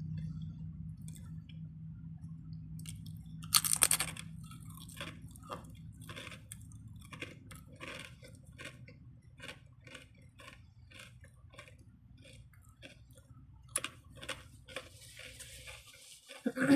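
Close-up chewing of a Subway sandwich, a run of small wet clicks and crunches, with one brief louder rustle about four seconds in. A low steady hum sits underneath.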